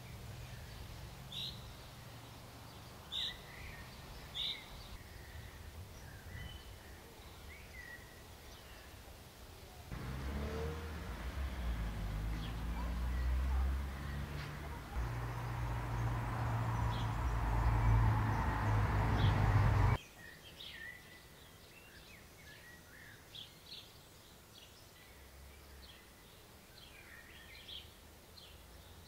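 Small birds chirping now and then over outdoor background noise. About a third of the way in, a louder low rumble and hiss cuts in abruptly, swells, and cuts off again about ten seconds later.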